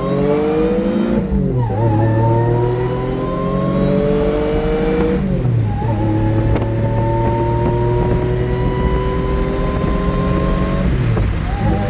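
Supercharged Mitsubishi 3000GT's 3.0-litre V6 accelerating hard at wide-open throttle. Its pitch climbs steadily and drops sharply three times as it changes up through the gears. Heard from inside the cabin with the windows down.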